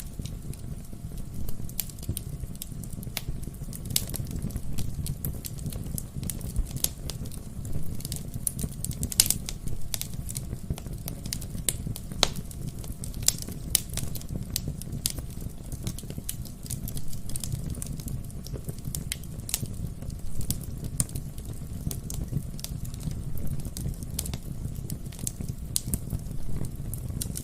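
Wood fire burning in a fireplace: a steady low rumble of flame with many sharp, irregular crackles and pops from the burning logs.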